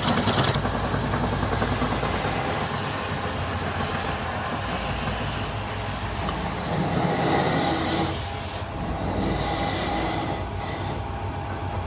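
A wood lathe running while a tool cuts the spinning wood, giving a steady rough noise with a low hum. The higher part of the noise eases off about eight and a half seconds in.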